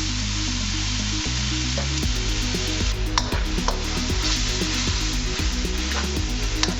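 Marinated diced chicken breast frying in a hot pan, a steady sizzle, with a few clicks of a utensil stirring from about three seconds in.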